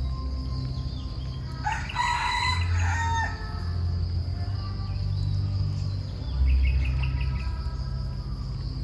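Rooster crowing once, about two seconds in, over a low steady drone, with a few short high bird chirps near the end.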